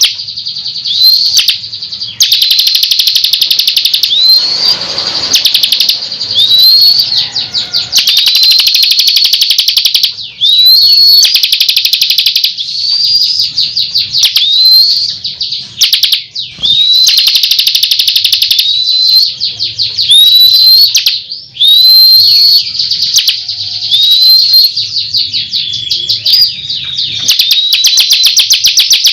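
Bar-winged prinia (ciblek) in full, energetic song: loud fast rattling trills broken by rising whistled notes every second or two, with only short pauses.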